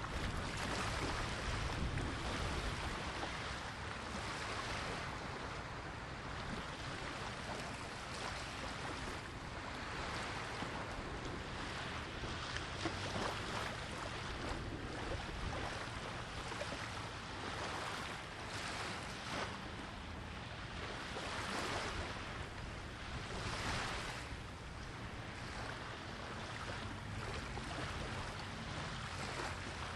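Sea waves breaking and washing on the shore in a strong wind, coming in repeated swells, with wind buffeting the microphone as a steady low rumble.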